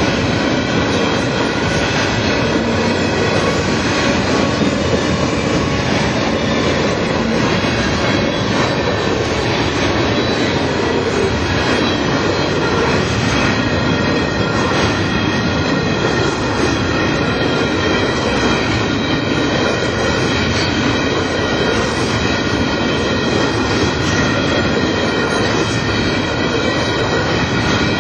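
Empty covered hopper cars of a long freight train rolling past close by, steel wheels running on the rails with a steady, high-pitched squeal as the cars take the curve.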